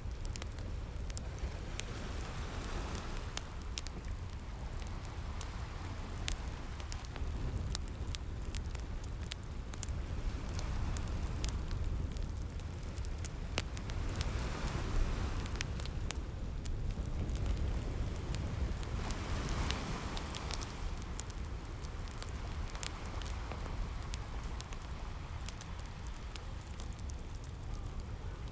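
A fireplace crackles with frequent sharp pops, over ocean waves that wash in and recede in slow swells every few seconds, with a steady low rumble underneath.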